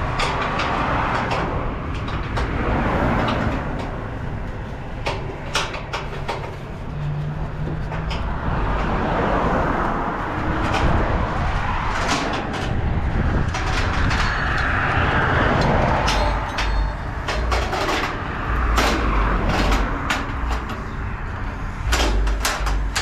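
Semi-truck running with a steady low rumble, with many sharp clicks and rattling knocks scattered through it.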